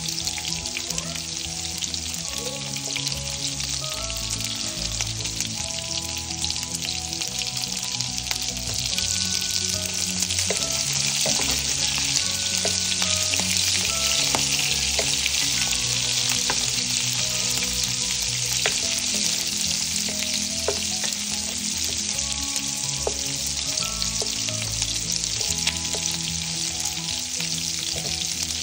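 Sausage pieces and sliced onion sizzling in hot oil in a nonstick frying pan, with a steady hiss and scattered clicks as a wooden spoon stirs them. Soft background music with held notes plays underneath.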